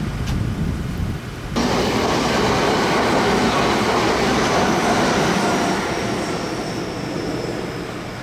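Nagoya Railroad train running past. Its noise comes in abruptly about one and a half seconds in, with a faint high tone that falls slightly, and eases toward the end.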